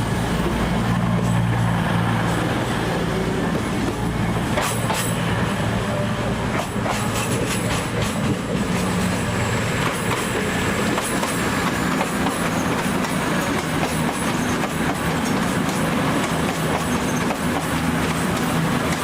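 A train moving slowly through the station, with a steady low engine or traction hum. Its wheels click over rail joints for a few seconds near the middle, with a faint high wheel squeal.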